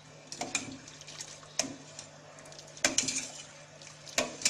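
Rice being stirred into a pot of boiling water with a spoon: irregular splashes and a few sharp clinks against the pot, over a faint steady hum.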